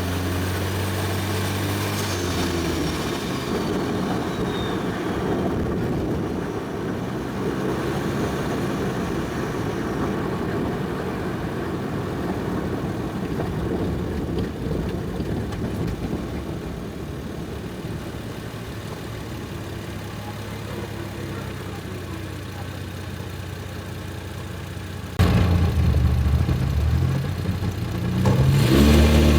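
Single-turbo 1JZ inline-six in a Toyota Soarer on a drive: a steady engine hum under noise while cruising. About 25 seconds in the engine suddenly gets louder under throttle, and near the end the revs climb as the car accelerates.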